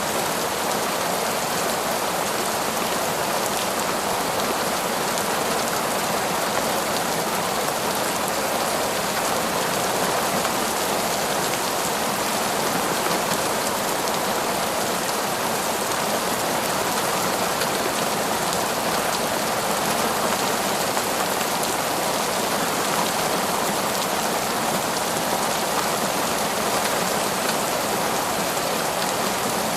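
Heavy torrential rain falling steadily, a dense even hiss of drops with no breaks or changes.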